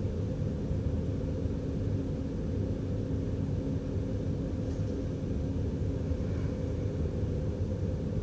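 Steady low rumble of an NS DDZ double-deck electric train running along the track, heard inside the driver's cab. A faint steady hum rides over it and fades out about six seconds in.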